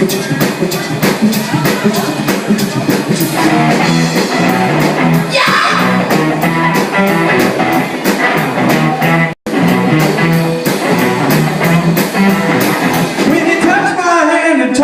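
Rock and roll band playing with electric guitar and a steady drum beat. The sound cuts out for an instant about nine seconds in, and a voice starts singing near the end.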